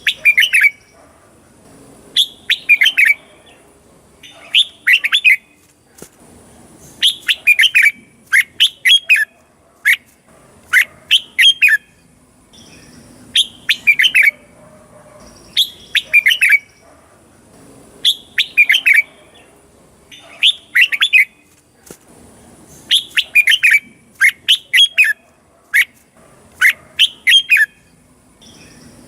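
Red-whiskered bulbul singing: short, quick phrases of several sweeping notes, repeated about every two seconds.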